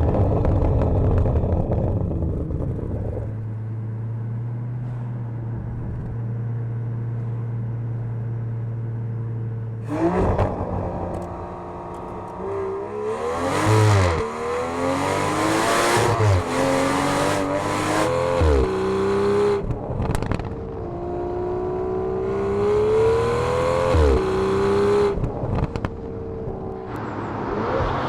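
Aston Martin V12 Speedster's twin-turbo V12 through a Quicksilver titanium sport exhaust, running at a steady pitch for several seconds. About ten seconds in it accelerates hard, its pitch climbing and dropping sharply at three upshifts.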